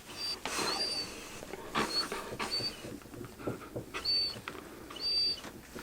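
A small kitten giving several short, faint, high-pitched squeaky mews, with soft rustling from handling between them.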